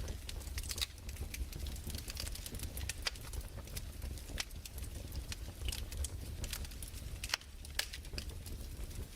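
Wood fire crackling: irregular pops and snaps over a low, steady rumble.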